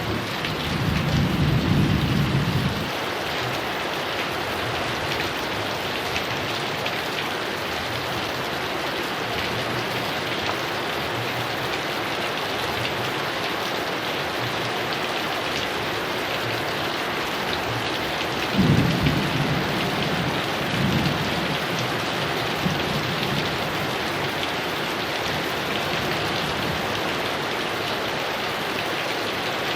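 Heavy rain falling steadily, with rolls of thunder rumbling during the first few seconds and again a little past the middle.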